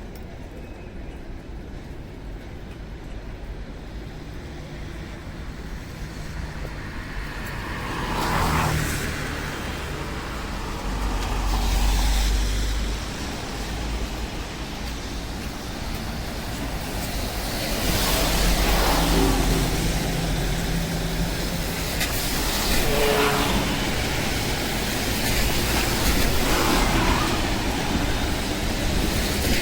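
City street traffic: a steady low rumble that is quieter for the first several seconds, then cars passing one after another, each rising and fading within a second or two.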